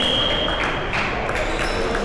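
Referee's whistle: one steady, high blast lasting about a second, over the background noise of an indoor sports hall.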